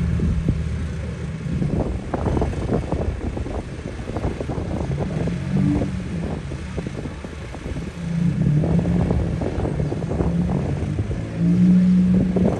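Tractor engines running as tractors pass on the road, one growing louder near the end, with irregular wind buffeting on the microphone.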